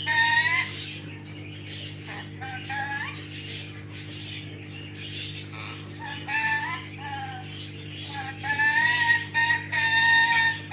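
A parrot calling in a series of short pitched calls that bend up and down, with louder, longer held calls about a second in and again near the end.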